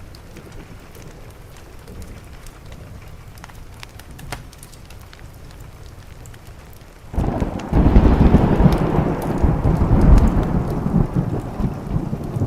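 Steady rain with scattered small clicks and crackles. About seven seconds in, a loud, deep roll of thunder breaks in suddenly and keeps rumbling.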